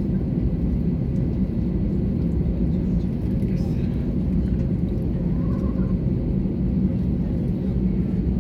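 Steady low rumble in the passenger cabin of an Airbus A320neo airliner on the ground before takeoff.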